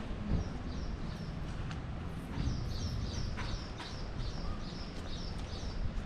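A small bird chirping: short high chirps, a few at first, then a steady run of about three a second from about two seconds in.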